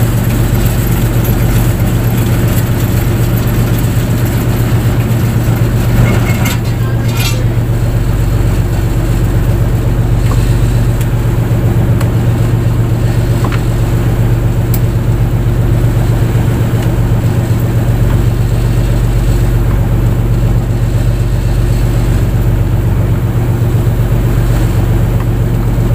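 A fishing boat's engine running at a steady, unchanging pitch. A brief rushing noise cuts in about six seconds in.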